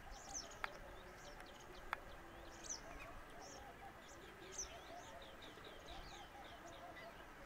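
Small birds chirping, a steady scatter of short, high, downward-sweeping notes, over fainter lower calls. Two short sharp ticks stand out in the first two seconds.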